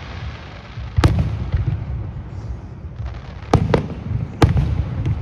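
Aerial fireworks shells bursting overhead: four sharp bangs, about a second in and then three close together near the middle, with a lighter pop near the end and a low rumble rolling on between them.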